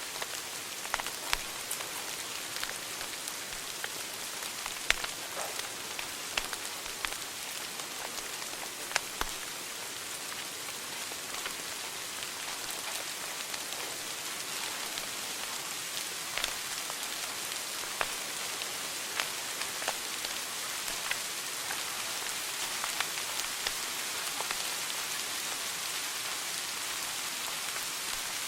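Wood fire burning in a fireplace: a steady hiss with sharp crackles and pops scattered irregularly throughout.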